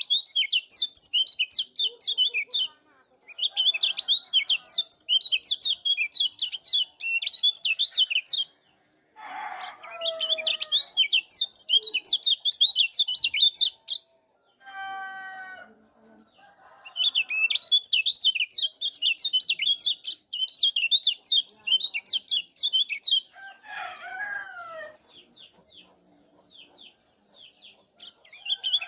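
Kecial kuning white-eyes chattering in spells of rapid, high 'ciak' chirps, each spell lasting a few seconds with short gaps between. In the gaps, a few lower-pitched calls from other birds, one of them falling in pitch near the end.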